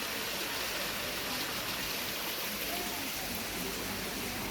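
Steady rushing hiss of a waterfall, water falling and splashing without a break.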